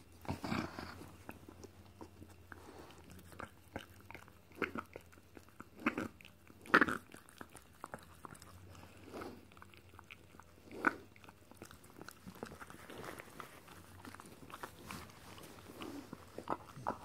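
Dog licking and nibbling at another dog's teeth and mouth: irregular wet smacks, licks and chewing clicks, the loudest about seven seconds in and again at about eleven seconds.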